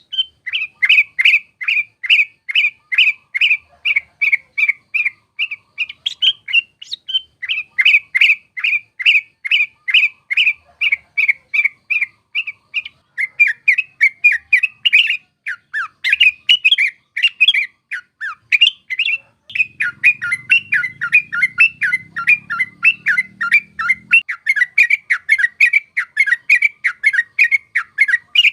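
Yellow-vented bulbul (trucuk) singing a long unbroken run of quick, bubbly chattering notes, about four a second, which grows denser and more jumbled in the second half.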